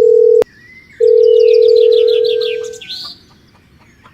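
A loud, steady electronic tone at one pitch, like a phone dial tone. It is cut by a sharp click about half a second in, then sounds again for nearly two seconds before fading, with quick high chirps over it.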